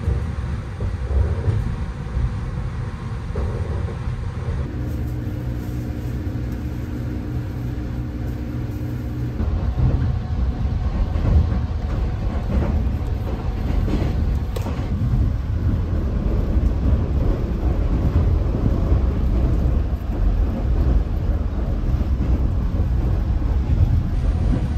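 West Express Ginga train running, heard inside the passenger cabin: a steady low rumble from the wheels on the rails, with a few occasional knocks. For a few seconds near the start, steady humming tones sit over the rumble.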